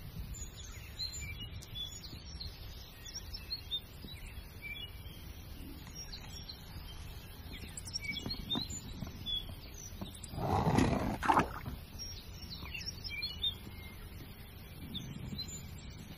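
Small birds chirping now and then in the background. About ten and a half seconds in comes a louder rushing noise of about a second, in two parts.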